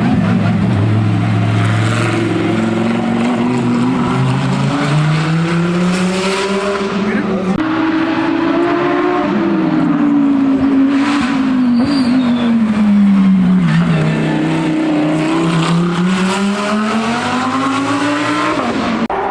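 Hillclimb race car engine at high revs, its pitch climbing and dropping several times as it accelerates, shifts gear and slows.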